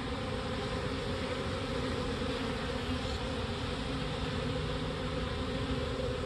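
Small honey bee swarm in a nuc box buzzing steadily during a hive inspection.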